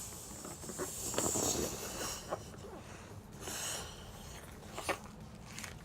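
Helium being breathed in from a balloon: two airy hissing inhalations, the first about half a second in and the second about three and a half seconds in, with a few small clicks of balloon handling.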